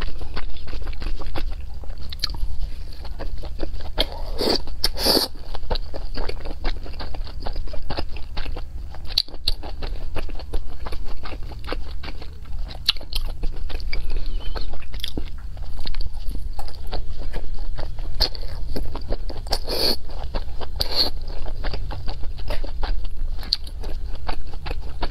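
Close-miked eating: biting into and chewing soft steamed dumplings, with dense wet mouth clicks and smacks and a few louder bites along the way, over a steady low hum.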